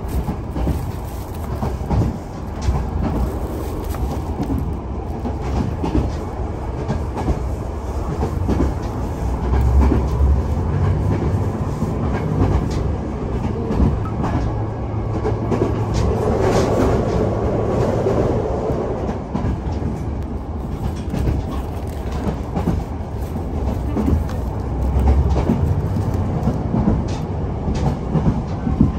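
Running noise of a Tango no Umi diesel railcar heard from inside the car: a steady low rumble with the clickety-clack of the wheels over rail joints.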